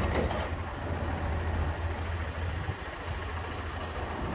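Garbage truck engine idling, a steady low rumble.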